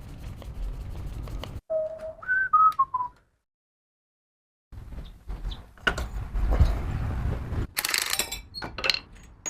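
A short whistled phrase: one held lower note, then three quick notes stepping down in pitch. Rumbling work noise comes before it, and a second and a half of dead silence follows.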